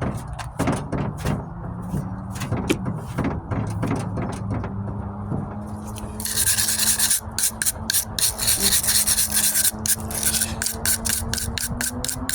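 Surform flat blade rasping body filler on a truck tailgate in repeated back-and-forth strokes. The strokes get harsher and quicker about halfway through for several seconds, leveling the high spots.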